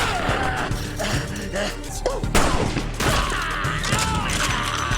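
Action-scene soundtrack: music under rapid gunfire and thuds.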